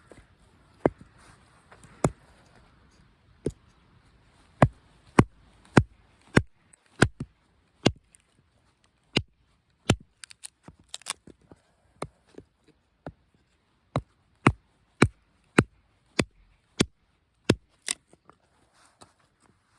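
Wood being chopped by hand: some two dozen sharp strikes at an uneven pace, roughly one or two a second.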